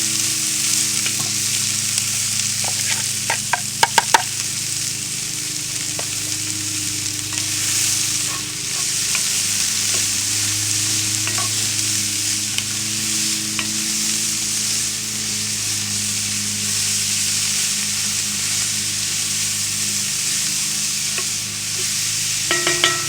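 Chopped vegetables sizzling in hot oil in a Dutch oven as they are stirred, with a few sharp clicks against the pot about three to four seconds in.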